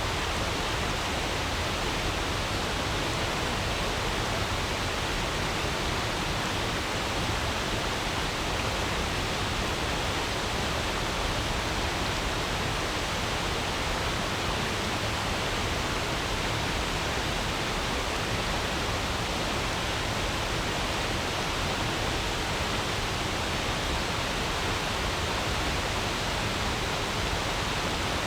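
A forest stream flowing over stones, a steady, even rush of running water with no changes.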